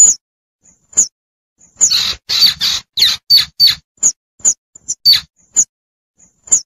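Baby squirrel calling for its mother with short, sharp, high squeaks. There is a single call about a second in, then a quick run of calls in the middle, then a few spaced single calls toward the end. This is the kind of call hunters play to lure adult squirrels in.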